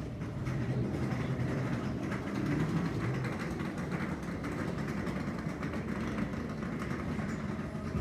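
Steady vehicle rumble with a low hum and a fine, rapid rattle.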